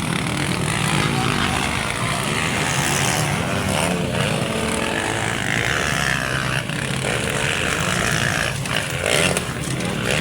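Motocross dirt bike engines running and revving, with pitch rising and falling as the bikes race.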